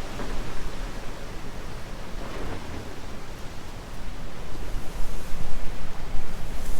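Wind blowing hard across the microphone: a steady rushing noise with a deep rumble, swelling in gusts and growing louder about two-thirds of the way through.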